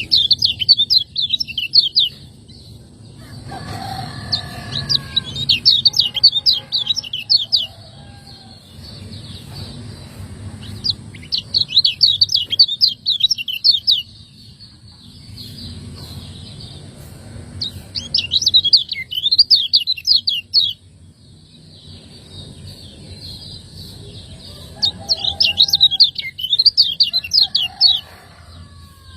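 Kecial kuning, a Lombok white-eye, singing in bursts of fast, high chirping notes, each burst lasting two to three seconds, five times with pauses between. A steady low hum sits underneath, and a few fainter, lower whistled notes come between the bursts.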